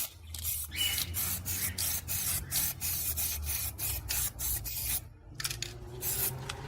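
Paint being applied to a piece of plastic in quick, short, scratchy hissing strokes, about three or four a second, with a brief pause about five seconds in.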